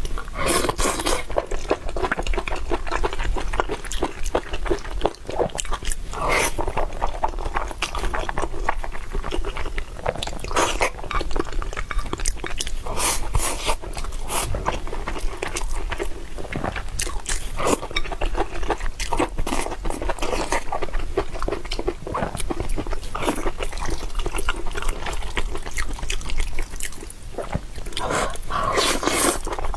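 A person chewing and biting food right at the microphone: steady wet chewing with crunchy bites all the way through.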